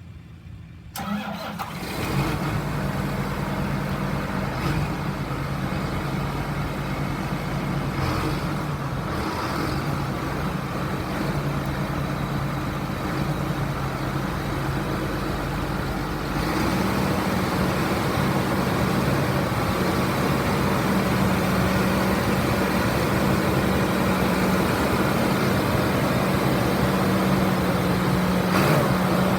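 John Deere 8420 tractor's six-cylinder diesel engine starting about a second in and settling into a steady run. About halfway through, it goes to a slightly faster, louder steady speed.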